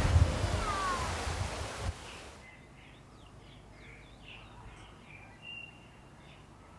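A loud, steady rushing noise that cuts off abruptly about two seconds in. After it, faint birds chirp in scattered short calls.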